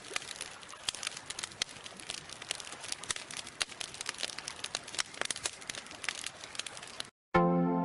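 Bonfire crackling, with irregular sharp snaps and pops over a steady hiss of burning. It cuts off abruptly about seven seconds in, and soft synthesizer music starts just after.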